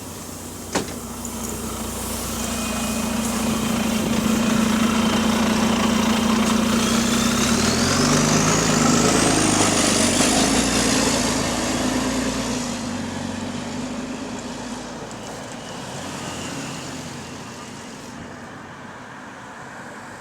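Bus engine, with an exhaust leak, pulling away under power. A sharp click comes just under a second in. The engine note then builds and steps up through the gears while a whine climbs in pitch, and the sound falls away as the bus eases off.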